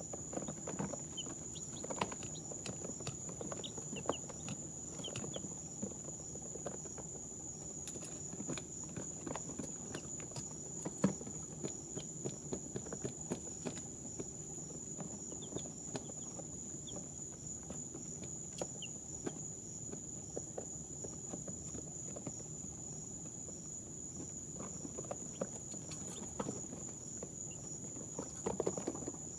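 Two-day-old chicks moving about in their bedding, with many small scratching and pecking ticks and a few faint short peeps, over a steady high whine.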